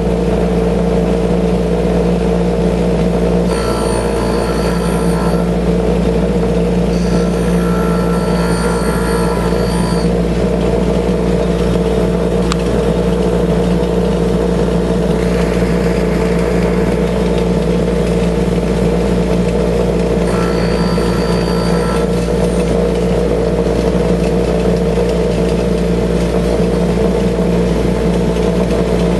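Bench grinder motor running with a steady hum while a drill bit held in a sharpening jig is ground on the side of the wheel. The grinding adds three spells of a higher, hissing sound: a few seconds in, around eight seconds, and around twenty-one seconds. It is grinding the bit's relief angle.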